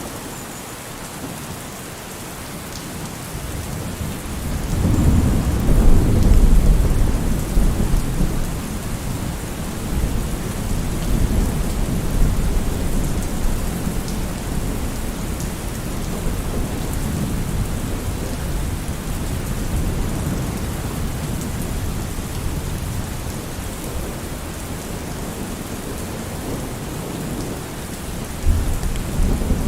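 Steady heavy rain falling on a surface, with a long rolling peal of thunder that builds about four seconds in, peaks shortly after and rumbles away slowly; another thunder rumble starts near the end.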